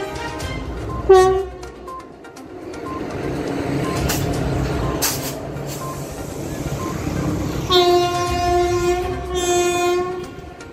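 Electric locomotive horn giving a short blast about a second in, then a train running by with a steady rumble that builds up. Near the end comes a long horn blast followed by a shorter one.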